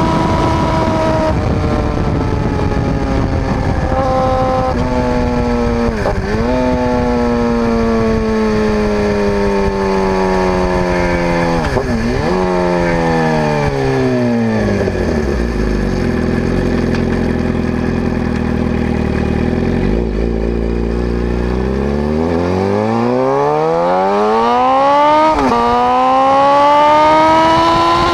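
2011 Suzuki GSX-R750's inline-four running through a baffle-less M4 GP slip-on and cat-delete mid pipe while ridden. Engine speed falls with a couple of brief dips and settles low for several seconds, then climbs again with a quick gearshift near the end.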